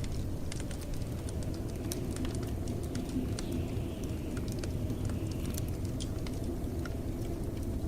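Blizzard wind making a steady low rumble, with a wood fire crackling in irregular sharp pops and snaps over it.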